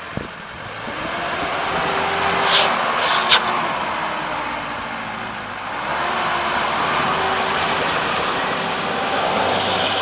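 Off-road vehicle engine running under load as it drives, its pitch rising a little about a second in. Two short hissing noises come about two and a half and three seconds in.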